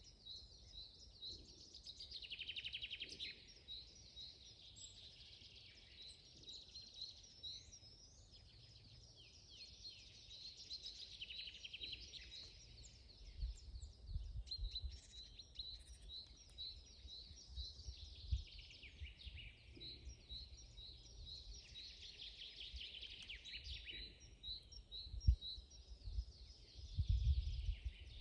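Several wild birds singing in a forest, their chirps and trills overlapping, one of them repeating a short high note again and again. Under them is a low rumble that swells about halfway through and is strongest near the end.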